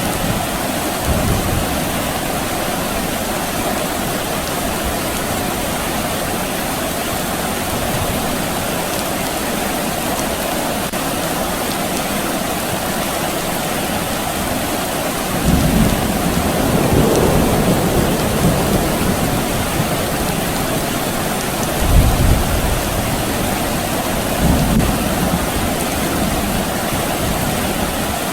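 Steady soft rain falling, with several low rumbles of distant thunder: a brief one about a second in, a longer rolling one past the middle, and shorter ones near the end, the loudest a little after two-thirds of the way through.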